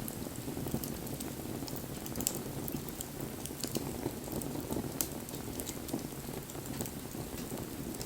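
Wood bonfire burning: a steady low noise of the flames with frequent short, sharp crackles and pops from the burning wood.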